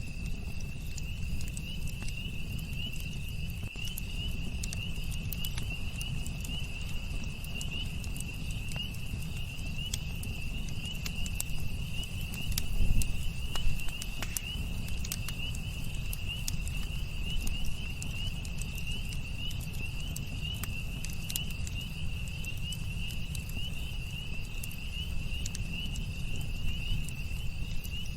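Campfire crackling with scattered sharp pops over a low rumble, with a louder surge about halfway through. Behind it, crickets keep up a steady high trill.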